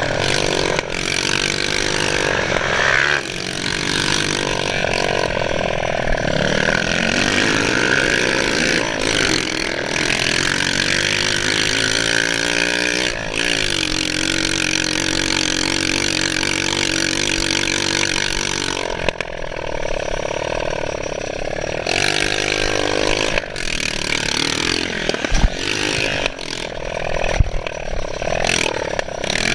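Motocross bike engine revving while riding, its pitch climbing and dropping again and again as the throttle opens and closes, with a few brief dips in the engine note.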